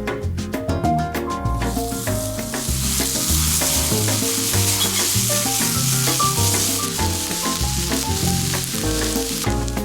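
Steak sizzling loudly in a hot pan over a campfire. The sizzle starts about a second and a half in and stops shortly before the end, over background music.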